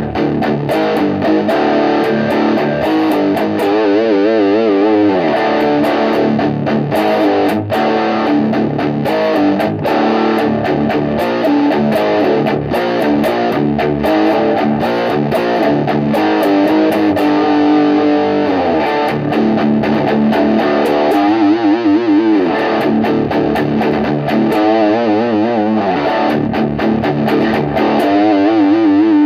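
Electric guitar played through a Shredhead British Distortion pedal, giving a distorted tone: riffing with several held notes shaken with wide vibrato.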